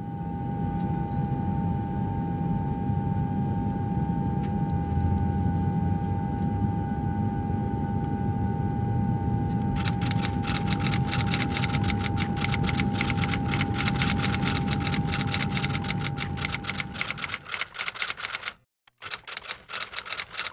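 A steady low rumble with a constant high hum. About ten seconds in, a rapid run of typewriter-like clicks starts; the rumble fades out near the end while the clicking goes on.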